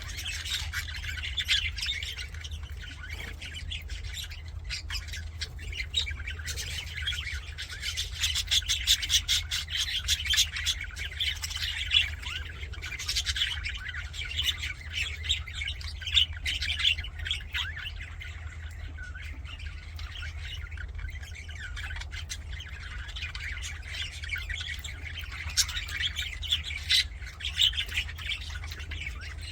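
Several budgerigars chattering and warbling together in a dense run of rapid chirps and calls, busiest in the middle and again near the end.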